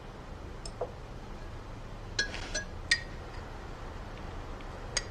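Tableware clinking as it is handled and set down: a few light, sharp clinks with a brief ring, the clearest a little over two seconds and about three seconds in.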